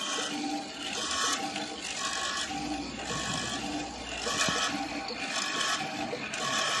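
Vertical hollow-chisel wood mortiser running, its chisel cutting into wood in a repeating pattern about once a second.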